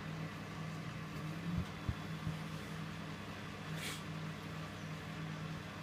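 Electrolux W455H commercial washing machine running with a steady low hum, with a few light knocks about one and a half to two seconds in and a brief hiss near four seconds.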